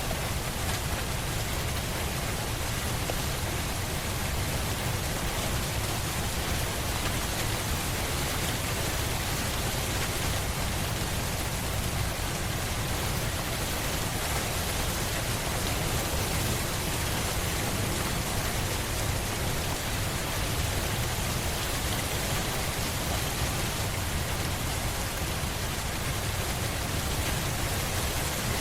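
Steady rain falling without a break: an even hiss with a strong low end and no single drops standing out.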